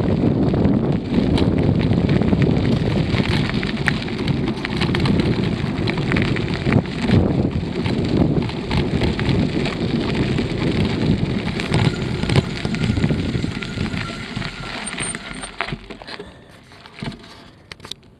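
Wind buffeting the microphone during a bicycle ride, with many sharp crackles and rattles from the moving bike. It fades away over the last few seconds as the bike slows.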